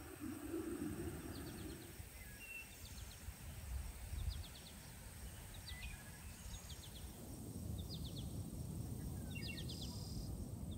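Rural outdoor ambience: a bird repeats short phrases of quick, high, falling chirps every second or so over a low steady rumble.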